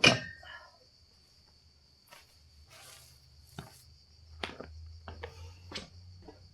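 A sharp knock near the start, then scattered lighter clicks and knocks, over a steady high chirring of crickets.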